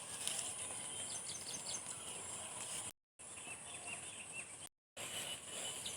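Small birds chirping, with short high chirps about a second in and a run of quicker chirps near four seconds, over a steady high hiss. The sound cuts out completely twice for a moment.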